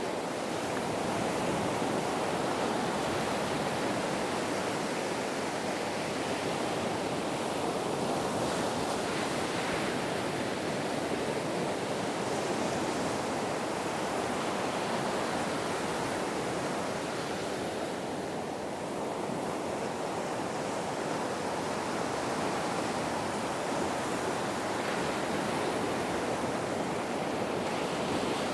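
Ocean surf: a continuous rush of waves washing in, easing slightly for a moment a little past halfway before building again.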